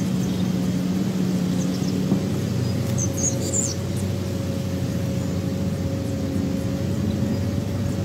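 A few short, high bird chirps from the nest about three seconds in, over a steady low hum of unknown source.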